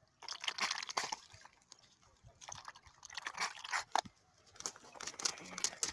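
Canada goose splashing and dabbling her bill in a water bowl: three spells of quick, wet splashes and clicks.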